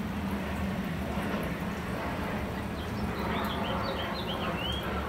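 A small songbird chirping a quick run of about eight short high notes, starting about three seconds in, the last note a little longer, over a steady low background hum and hiss.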